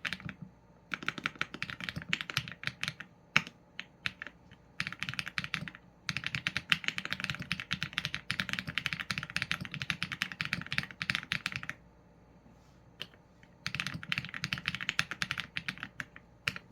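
Typing on a Qsenn A75 mechanical keyboard with Leobog Graywood v4 linear switches and PBT keycaps: fast runs of keystrokes broken by short pauses, with a few lone strokes in between.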